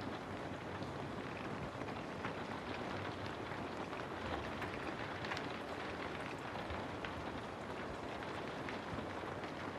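Steady rain falling on a house: a dense, even hiss sprinkled with many sharper individual drops.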